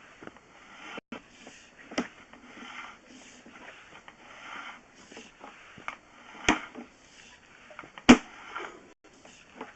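Sewer inspection camera and its push cable scraping and rustling along the inside of a drain pipe, with three sharp knocks, the loudest near the end.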